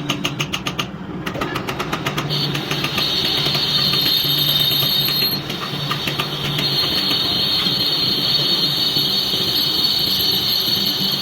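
Metal lathe running with a steady low hum. Rapid even ticking, about six a second, fills the first two seconds. Then a steady high-pitched hiss with a thin whistle comes in abruptly and continues.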